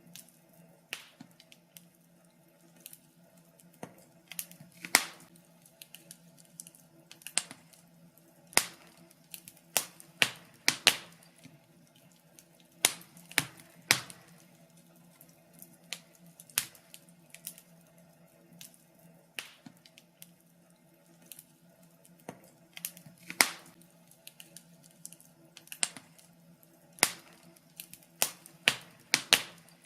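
Wood fire crackling, with irregular sharp pops and snaps, a few much louder than the rest, over a faint steady low hum.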